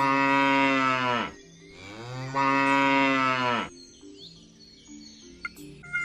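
Cow mooing twice: two long, low moos of about a second and a half each, over soft background music.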